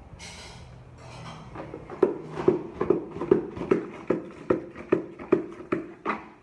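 A run of evenly spaced knocks, about two or three a second, starting about two seconds in: something being struck repeatedly.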